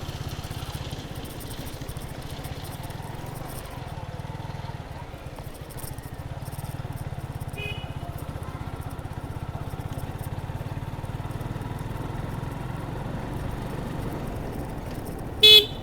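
Suzuki Gixxer 155's single-cylinder engine running steadily on the move. A short horn beep sounds just before the end, with a fainter brief beep about halfway through.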